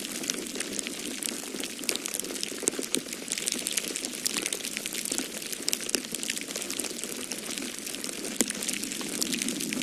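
Wood fire crackling in a fireplace, a continuous scatter of sharp pops and snaps over a steady low rushing noise of wind.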